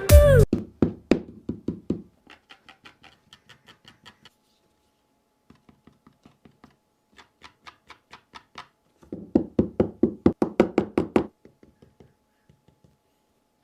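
Rapid runs of light knocks or taps, about five a second, faint at first and louder for a couple of seconds about nine seconds in.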